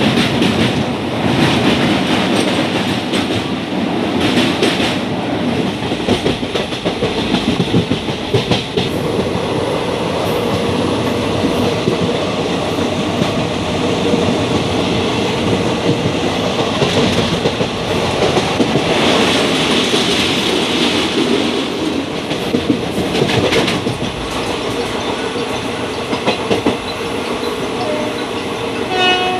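Express passenger train running at speed, heard from an open coach doorway: a steady rumble of wheels on rail with a repeated clickety-clack over the rail joints.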